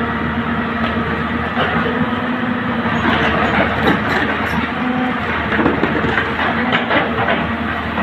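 An excavator working: a diesel engine runs steadily, with a run of metallic clanks and rattles from about three to seven seconds in.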